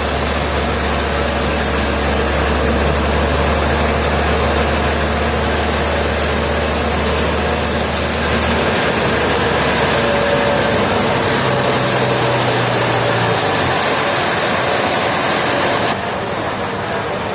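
Heavy sawmill machinery running steadily: a loud engine drone under a constant mechanical hiss. The low drone shifts about nine seconds in, and the sound drops in level near the end.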